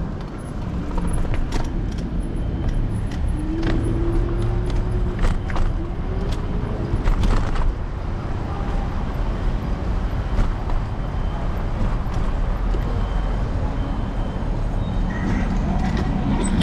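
City street traffic and road noise picked up by a camera on a moving electric scooter's handlebars: a steady low rumble with scattered sharp knocks and rattles.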